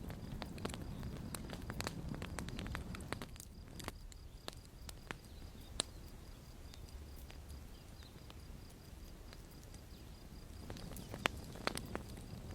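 Campfire crackling: irregular sharp pops and snaps over a low steady rumble. The pops thin out for several seconds in the middle and come thicker again near the end.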